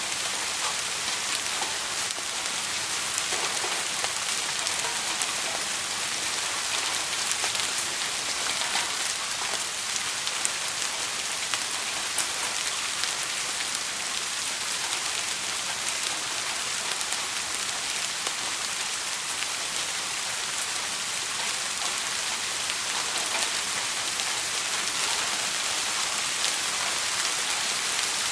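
Steady rain: an even hiss of falling drops, with many small scattered drop ticks.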